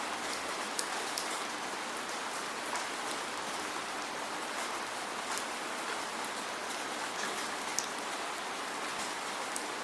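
Steady rain with no thunder: an even hiss of rainfall with scattered sharp ticks of individual drops hitting close by.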